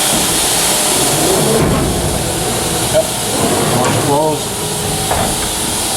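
Fadal vertical machining center running, with a steady high hiss that falls away about a second and a half in, leaving a lower machine hum with a steady tone. A voice is heard briefly near the middle.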